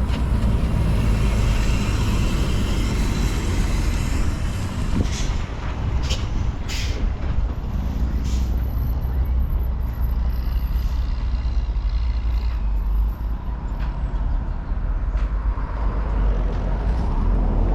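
Road traffic with passing trucks, a constant low rumble, and a few short hisses between about five and eight seconds in.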